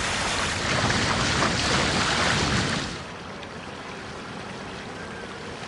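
Wind and water rushing aboard a sailing yacht under way. The noise is loud for about three seconds, then drops suddenly to a quieter steady hiss.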